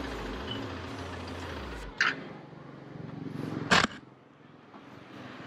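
Bajaj Dominar 400's single-cylinder engine running at a slow idle, then cut off abruptly with a click about two seconds in. A sharper click follows a couple of seconds later.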